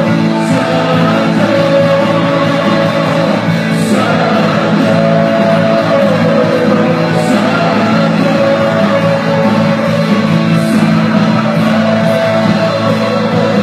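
Live church worship music: voices singing over a band, loud and steady.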